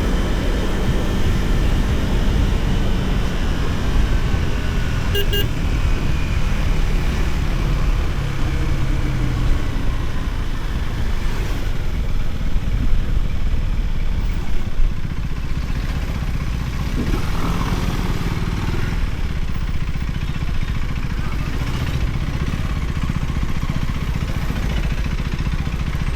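Motorcycle running along a road, its engine note shifting in pitch now and then under a steady low rushing noise, with a brief click about five seconds in.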